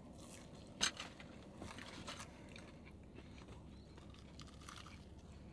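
Biting into and chewing crisp battered, deep-fried fish: one sharp crunch about a second in, then a few softer crunches of chewing.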